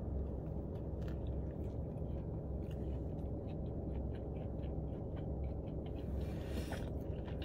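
A person biting into and chewing a hamburger close to the microphone: faint wet chewing and mouth clicks, with a second bite near the end. A steady low hum runs underneath.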